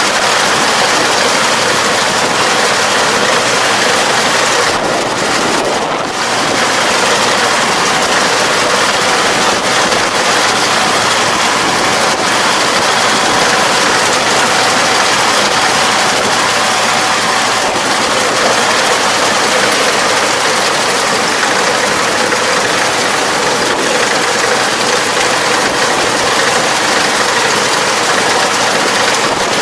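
Farm machine's engine and working machinery running steadily under load, with a brief small dip in level about six seconds in.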